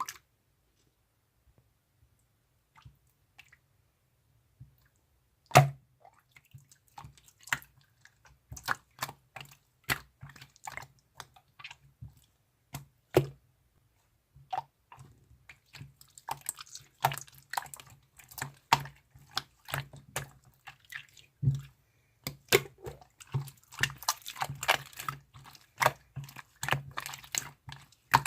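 Irregular sharp clicks and taps with dripping liquid, from a drink being mixed: glass, ice and bottle being handled. The first is loud, about five seconds in, and the taps come thicker toward the end.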